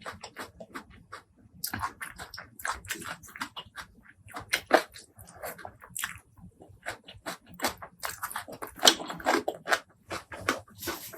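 Close-miked eating sounds: irregular chewing, biting and mouth smacks as spicy food is eaten, with a louder cluster about nine seconds in.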